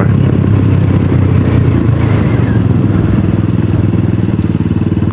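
250cc DF250RTS / Venom X22R motorcycle engine running at a fairly steady pitch while the bike is ridden.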